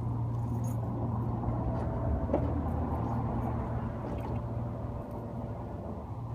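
2001 Corvette Z06's LS6 V8 idling steadily through a muffler-delete exhaust, stock headers and cats with the mufflers removed. A single brief click a little over two seconds in.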